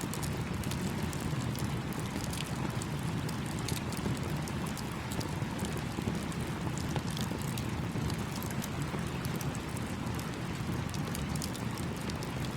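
Campfire crackling with frequent small sharp pops, over the steady rush of a small stream.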